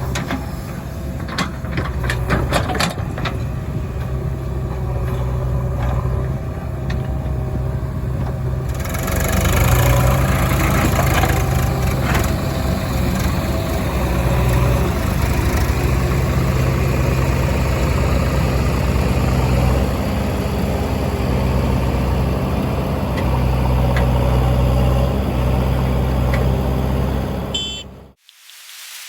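Heavy diesel engine running under load, its revs rising and falling in repeated surges, with a few sharp knocks in the first few seconds. The sound cuts off abruptly near the end.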